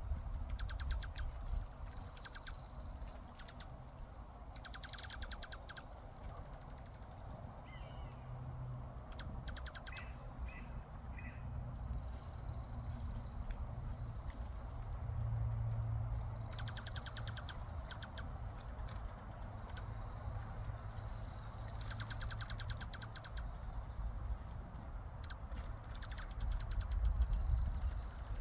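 Birds trilling: rapid, high buzzy trills repeated every few seconds, with steady high whistled notes of about a second in between and a few soft chirps. A low background rumble runs underneath.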